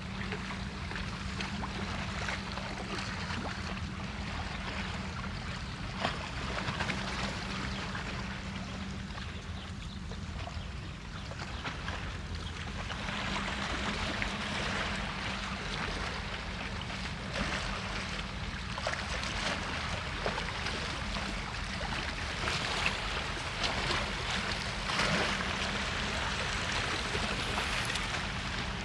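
Steady outdoor city ambience: a low rumble under an even hiss, with a faint steady hum and a few soft knocks.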